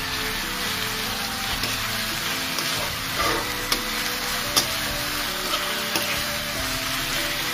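Chicken and fried onions sizzling in hot oil in a metal kadai while a spatula stirs them. The spatula clicks against the pan a few times in the second half.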